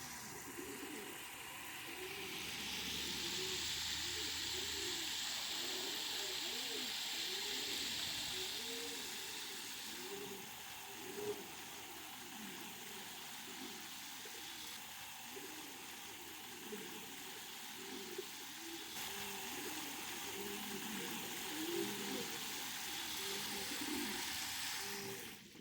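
Domestic pigeons cooing in a loft, many low rising-and-falling coos overlapping one after another. A steady hiss sits under them, louder over the first third.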